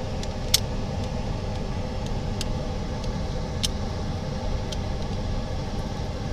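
Steady mechanical hum of workshop machinery, with a few light, sharp clicks of small parts being handled.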